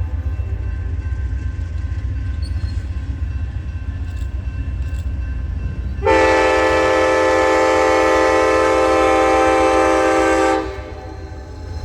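Train locomotive's air horn sounding one long blast of several notes at once, starting about halfway through and cutting off about four and a half seconds later, over a steady low diesel rumble.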